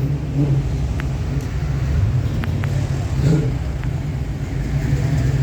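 Car engine running at low revs, a steady low rumble that swells slightly now and then.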